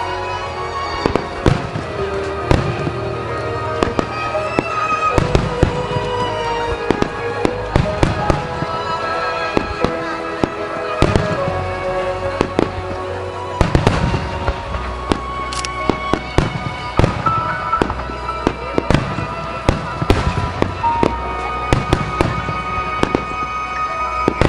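Aerial firework shells bursting in quick succession, many sharp booms and crackles throughout, over music playing with the show.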